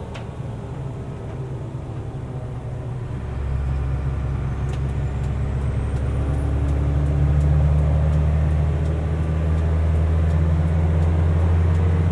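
Mercedes-Benz Unimog U500's turbo-diesel engine pulling in 7th gear, heard from the cab. Its low drone gets louder about three seconds in and builds to a steady level, while a faint high whine rises over several seconds and then holds.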